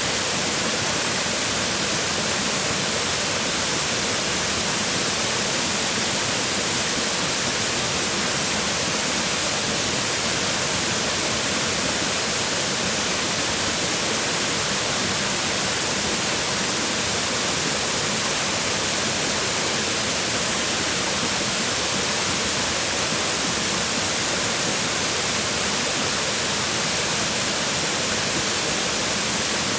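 Waterfall: water falling and splashing on rocks in a steady, dense rush with no breaks.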